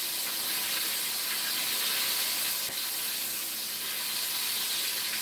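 Chicken back pieces part-frying in a pot of hot oil: a steady sizzling hiss.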